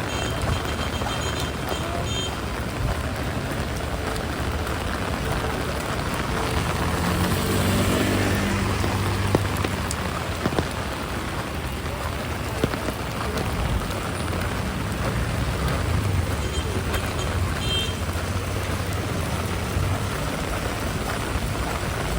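Heavy rain falling steadily on a city street, with a motor vehicle's engine passing close by, loudest about a third of the way in.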